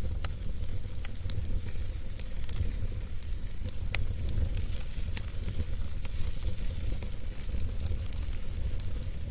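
Wood fire burning in a fireplace: steady low rumble and hiss with scattered sharp crackles and pops, one sharper pop about four seconds in.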